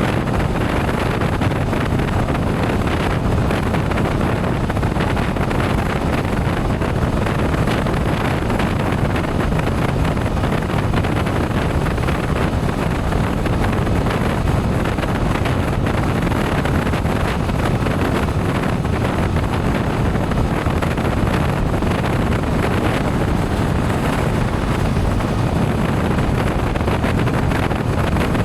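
Steady wind rush on the microphone of a motorcycle riding at speed, with road and engine noise blended underneath and no distinct changes.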